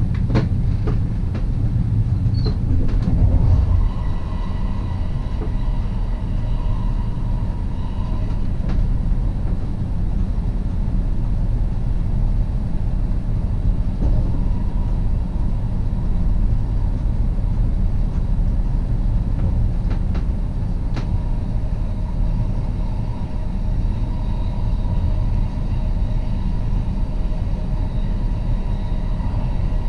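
NSB Class 69 electric multiple unit running along the line: a steady low rumble of wheels on rails with faint whining tones over it. A few short clicks come in the first second or so and again around the middle.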